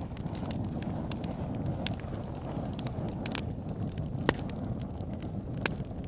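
Wood fire burning in a fireplace: a steady low rumble of flames with irregular crackles, and two louder pops in the second half.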